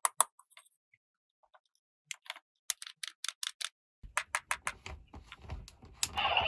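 Quick runs of sharp clicks and taps from small plastic toy pieces being handled and set down. A denser, louder rustling noise builds near the end.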